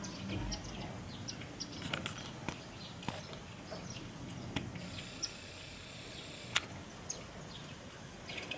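Small birds at a feeding plate, Indian silverbills and sparrows, giving short high chirps, with scattered sharp clicks. A steady high hiss lasts about a second and a half and ends in the loudest click, about six and a half seconds in.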